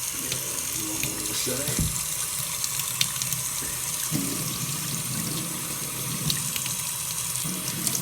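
Tap water running steadily and splashing onto a shoe held under the stream, a test of whether the waterproofing grease keeps the water out.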